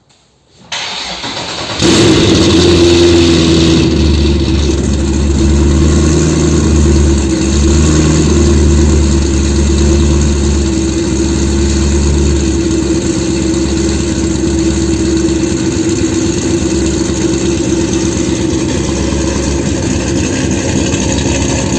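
Chevrolet Corvette C6 Z06's LS7 V8 with Corsa exhaust being started: the starter cranks briefly about a second in, the engine catches and runs at a raised idle, then settles to a lower, steady idle about halfway through.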